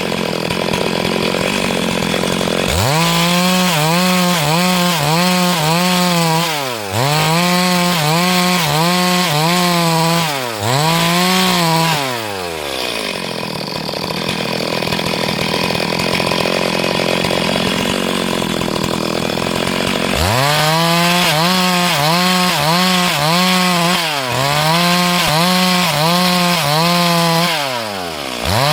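Two-stroke chainsaw cutting lengthwise through a log. The engine runs at high revs, its pitch wavering about twice a second under the load of the cut. The throttle drops off and picks up again several times, with a rougher, noisier stretch of cutting in the middle.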